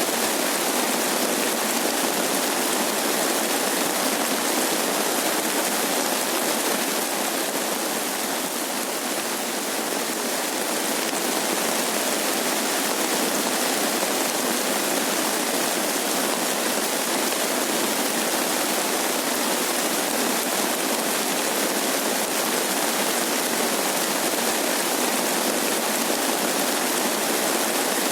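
Steady rain falling, an even hiss that eases slightly for a couple of seconds about a third of the way in.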